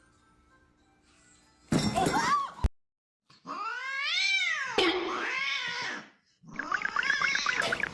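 Cats meowing in short separate clips: a loud meow about two seconds in, then a long meow that rises and falls in pitch, and a rougher, pulsing cat cry near the end.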